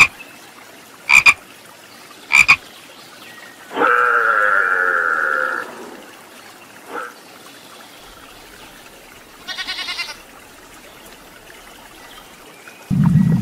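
Frog croaking: three short, loud double croaks in the first few seconds, followed by a longer drawn-out call and later a quick pulsed call. A low steady rumble starts near the end.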